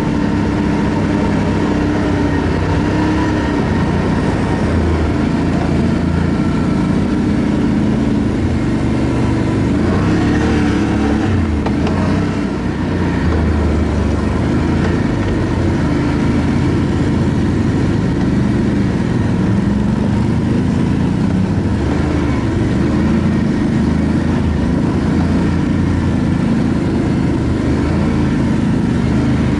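ATV engine running steadily while the machine is ridden, its pitch rising and falling with the throttle.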